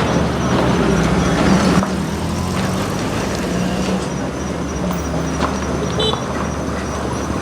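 A motor vehicle's engine running steadily, a low hum that eases slightly about two seconds in.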